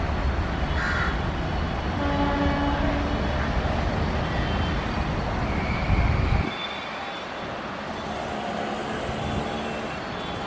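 Passenger train rolling with a heavy low rumble, with a short steady tone about two seconds in. The rumble cuts off suddenly about six and a half seconds in, leaving a quieter background.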